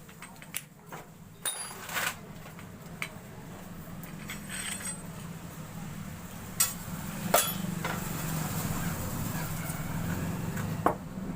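Metal motorcycle fork parts and tools clinking and knocking: about seven sharp, scattered clinks. A steady low hum runs underneath and grows louder partway through.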